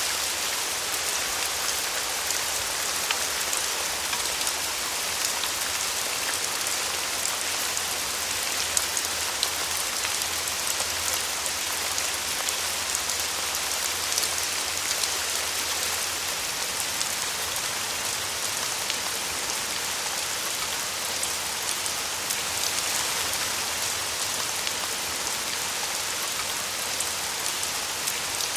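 Steady rain falling: an even hiss with countless small drop ticks.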